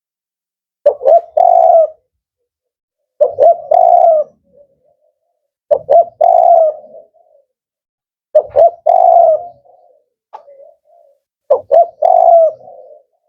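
Male spotted dove (tekukur) of the 'kuk 4' call type cooing: five repeated call phrases, each a couple of short notes followed by a longer coo, about every two and a half seconds.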